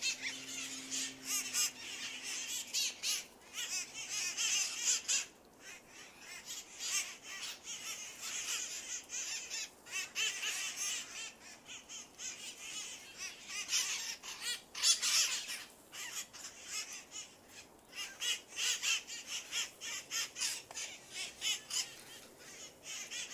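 A flock of parrots in a tree, squawking and chattering with many overlapping short, harsh calls while they feed.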